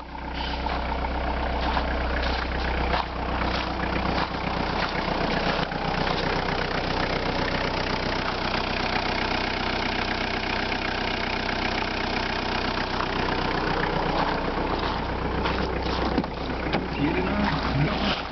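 Skoda Felicia 1.9 diesel four-cylinder engine idling steadily, with an even, rapid pulse.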